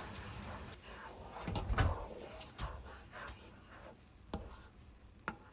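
A few scattered knocks and clicks, like objects being handled or set down, the loudest with a dull thump about two seconds in.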